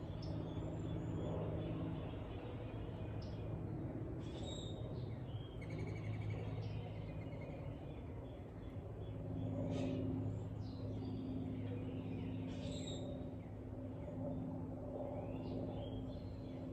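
Small birds chirping and calling in short scattered notes, with a brief rapid trill about six seconds in, over a steady low hum.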